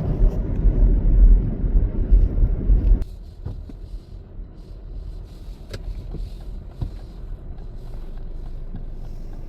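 Car driving, heard from inside the cabin: a loud low rumble of road and engine noise that drops suddenly about three seconds in to a much quieter low hum with a few faint clicks.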